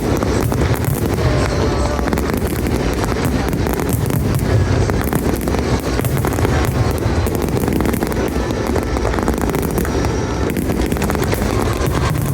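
Fireworks bursting and crackling with a low rumble, over music.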